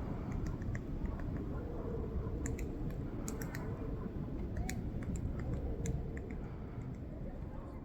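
Great spotted woodpecker pecking and chiselling at a tree trunk: irregular sharp taps, several a second in loose clusters, not a drumming roll. A steady low rumble runs underneath.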